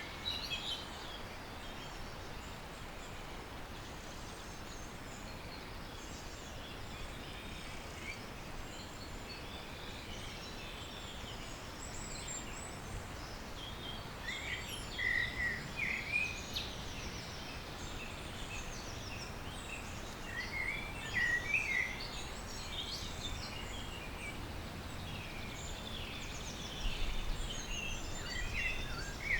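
Small birds chirping in short, high calls over a steady outdoor background hiss, with louder clusters of chirps about halfway through, again a little later, and near the end.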